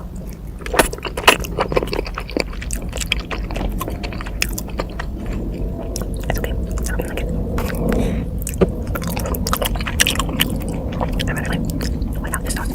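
Close-miked chewing and biting of food, with many sharp mouth clicks and smacks.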